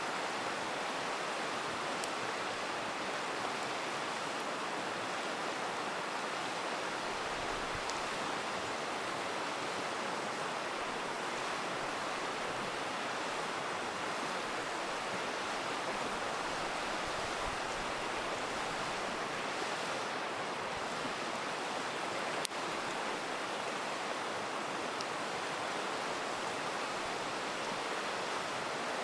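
River rushing steadily. Now and then a campfire crackles or pops, with one sharper pop about three-quarters of the way through.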